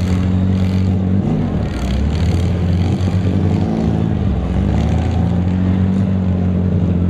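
Several demolition-derby cars' six-cylinder engines running together in a loud, steady drone, with one engine revving up and back down about two seconds in.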